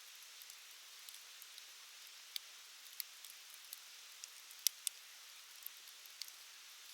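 Wood campfire crackling: scattered sharp pops, a pair of the loudest about two thirds of the way through, over a steady soft hiss.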